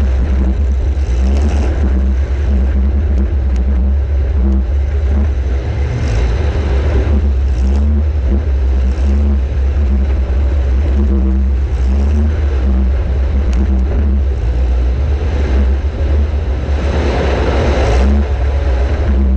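A demolition derby compact car's engine running hard under load, pitch rising and falling, with several sudden crashes from hits. The heaviest crash comes near the end.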